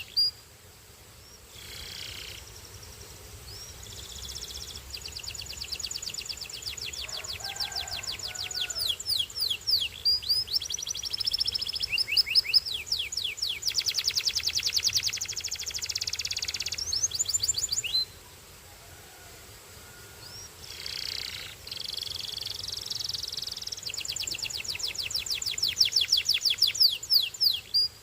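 Belgian singing canary singing in fast trills of rapidly repeated high notes, in long rolling phrases, with a pause of a few seconds about two-thirds of the way through.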